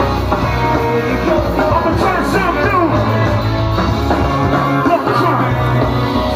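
Live go-go music played loud over a sound system, with a steady bass line and a singing voice.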